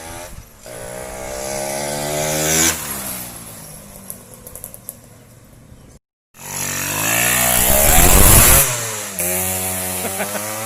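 Yamaha F1Z R two-stroke engine, swapped into a Yamaha V80, being revved twice. The pitch climbs for about two seconds and falls back. After a brief gap it climbs again to a louder peak and drops back toward idle near the end.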